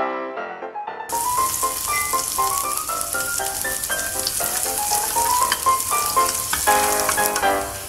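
Chopped spring onion sizzling in hot cooking oil in a frying pan as it is stirred with chopsticks. The sizzle starts suddenly about a second in, over piano background music.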